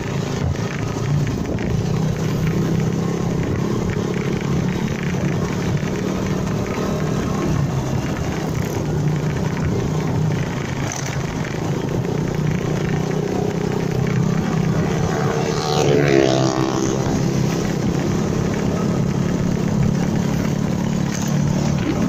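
Honda MegaPro Primus motorcycle's single-cylinder engine running steadily while riding, with road noise. About two-thirds of the way through, another vehicle sweeps past, its sound falling in pitch.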